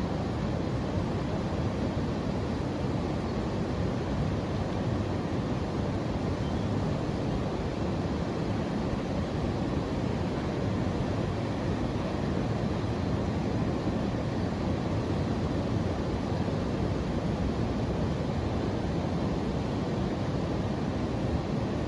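A steady, even rushing noise, heaviest in the low range, with no distinct events.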